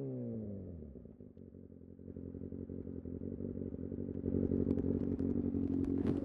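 Kawasaki Ninja ZX6R's inline-four engine with the revs falling off as the throttle closes, settling within about a second into a low, steady-pitched, pulsing run at low revs. It grows gradually louder, and a few sharp crackles or clicks come near the end.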